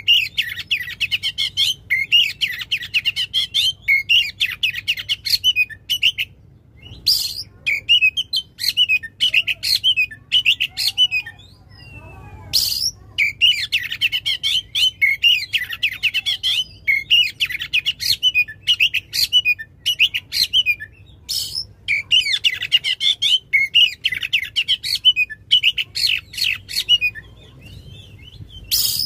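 Oriental magpie-robin singing loudly in long, rapid chattering phrases, broken by a few short pauses and punctuated by occasional sharp, piercing notes.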